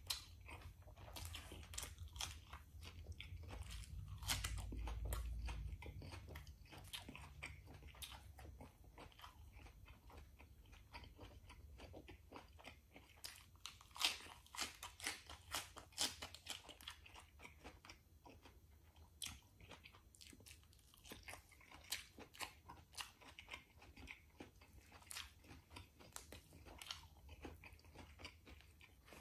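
Close-up eating sounds: crisp crunching bites and wet chewing of lettuce and rotisserie chicken, a string of short crunches and mouth clicks. A sharp bite about fourteen seconds in is the loudest. A low rumble runs under the first few seconds.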